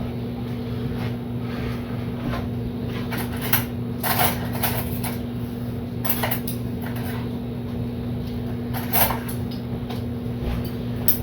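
A few scattered knocks and clacks of kitchenware being handled over a steady hum.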